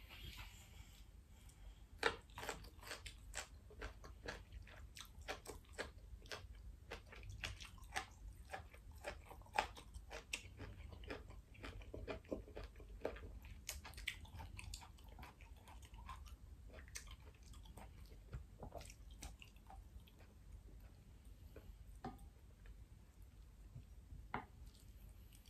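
Close-miked chewing of crunchy stir-fried asparagus: quick crisp crunches and wet mouth clicks, starting with a sharp bite about two seconds in, densest in the first half and thinning out toward the end.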